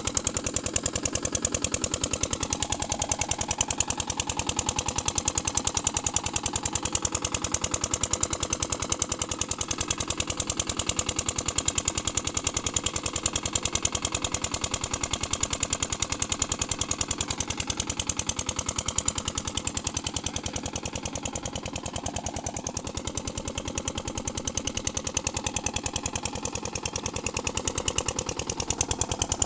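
Kirloskar diesel engine driving a water pump, running steadily with a regular, even chug of firing strokes.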